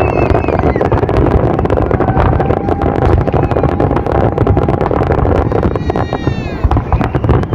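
Aerial fireworks display: a dense, continuous run of crackles and bangs from bursting shells over a low rumble. Whistling tones sound over it, one falling in pitch about six seconds in.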